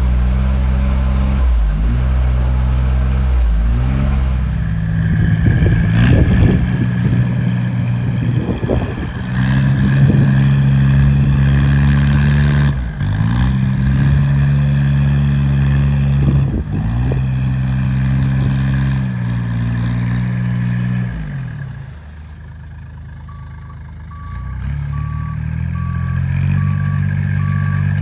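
Off-road vehicle engine working hard through a flooded, muddy ditch, its pitch dropping and climbing again several times as it bogs and recovers under load, with rough splashing and churning in the middle stretch. Near the end the engine eases off and a steady, evenly pulsing reversing alarm starts beeping as the engine picks up again.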